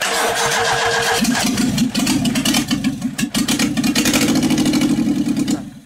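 Opel Corsa 1.2 litre inline-four engine, run without a muffler, being cold-started: the electric starter whines for about a second, then the engine cranks and fires in a rapid, uneven stutter. The sound cuts off suddenly near the end.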